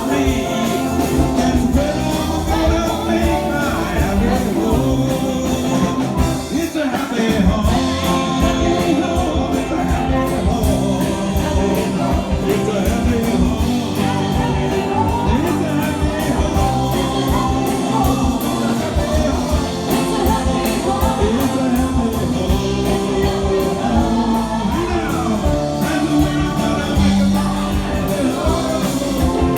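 A rock and roll band playing live with a singer, guitar and a steady beat, heard through a small recording microphone.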